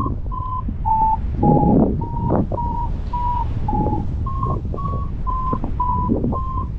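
Paragliding variometer beeping about twice a second, its pitch shifting a little up and down: the climb tone that signals lift while circling in a thermal. Wind noise runs underneath.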